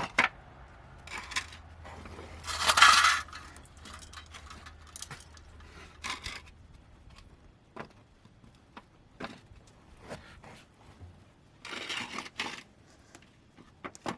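Small hard objects clinking and clattering, like metal bits being handled, with two louder scraping bursts, one about three seconds in and one near the end.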